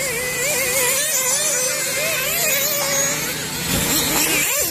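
Nitro RC buggy engines running at a high pitch that wavers up and down as the cars rev and back off around the track.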